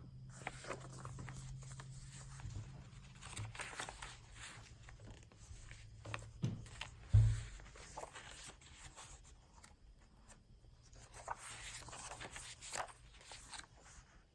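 Paper rustling and crinkling as the pages of a handmade journal are turned and handled, with small clicks throughout and one soft low thump about seven seconds in.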